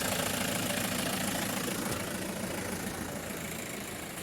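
2011 VW Touran's engine idling steadily, growing gradually quieter.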